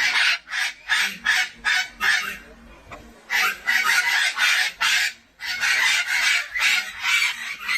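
St. Vincent parrots giving a rapid run of harsh, raucous squawks, several a second, with short breaks about two and a half seconds in and again near five seconds.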